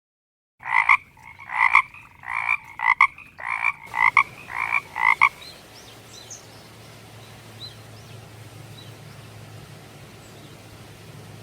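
A frog calling, about seven croaks in a row roughly two-thirds of a second apart, which stop about halfway through. A faint low hum and background remain after.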